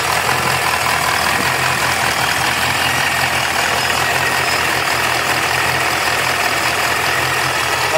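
Pontiac GTO's stroked LS2 V8, a 408 with a Procharger D-1 supercharger, longtube headers and cat deletes, idling steadily.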